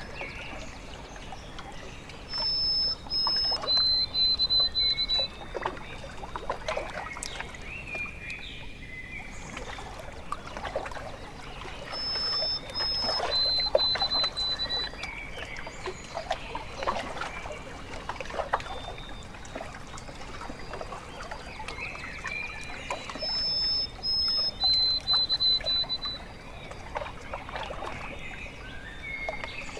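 Small waves lapping and trickling at a lakeshore. Over it a songbird sings a short phrase three times, about ten seconds apart: two high notes, then a slightly lower run of notes.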